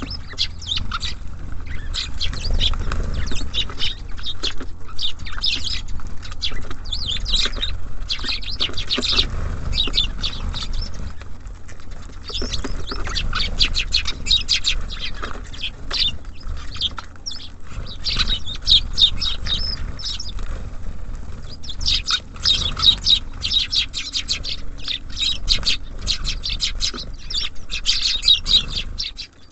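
Small garden birds at a feeder chirping in a dense, continuous chatter of short calls, briefly thinning out about halfway through, over a low steady rumble.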